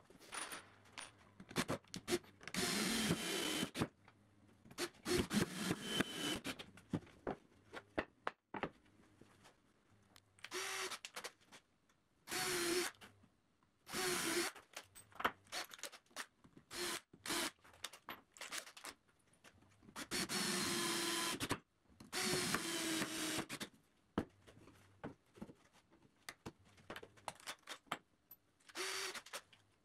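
Power drill running in short bursts of a second or two, about eight times, with clicks and handling of wooden parts between them, typical of driving screws to assemble alder bench parts.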